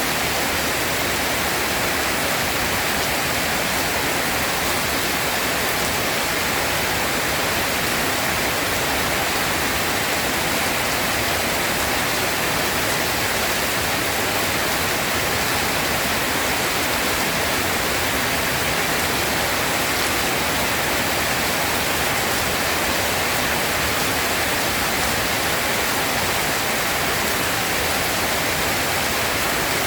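Steady heavy rainfall, an even, unbroken hiss with no thunder.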